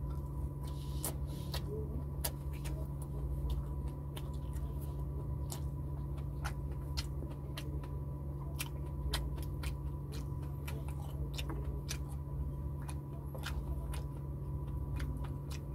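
Chewing and mouth clicks of a person eating rice and fried tilapia by hand. The clicks come at irregular intervals over a steady low hum.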